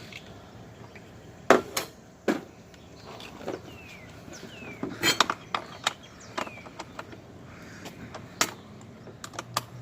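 Scattered metallic clinks and knocks of tools and parts being handled on a dirt bike, the loudest about a second and a half in, with a quick cluster around five seconds in and more near the end.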